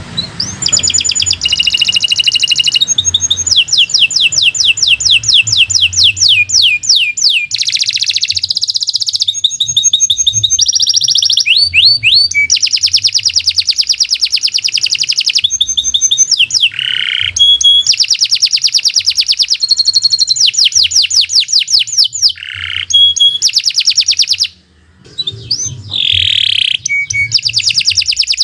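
Domestic canary singing a long, near-continuous song of fast rolling trills, about a dozen notes a second, linked by short sweeping notes. The song breaks off briefly near the end.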